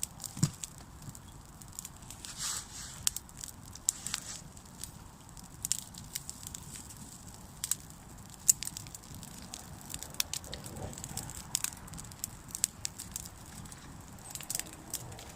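Wood campfire crackling, with irregular sharp snaps and pops over a low steady hiss.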